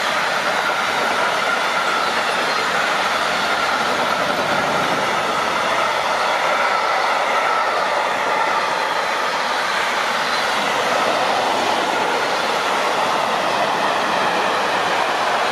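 A train running past on the rails: a steady, continuous rush of wheel and rail noise with a faint high whine held through it.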